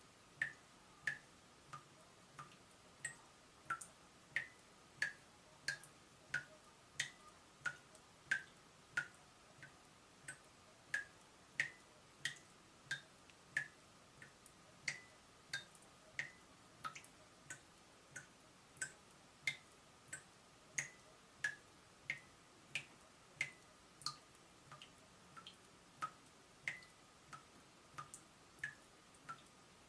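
Water drops falling from a leaking tap, one short plink after another at a steady pace of about one and a half drips a second, some louder than others. A faint steady high hum sits underneath.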